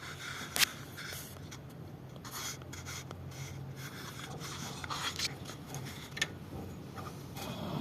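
Irregular scraping and rubbing from hand work on car brake parts, with a few sharp clicks and a steady low hum underneath.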